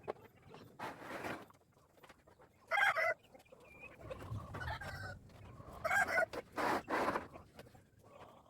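Chickens calling: several short, loud, pitched squawks about a second in, around three seconds in and twice near six to seven seconds, with faint knocks between them.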